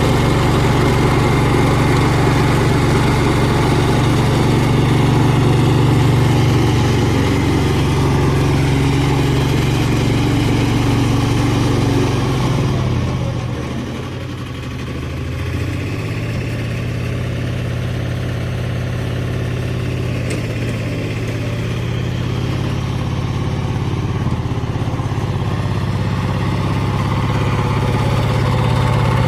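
Valpadana 4RM 180 mini tractor's diesel engine running steadily under load while rotary-tilling hard soil. About twelve seconds in, its pitch sags for a few seconds as it labours, then climbs back.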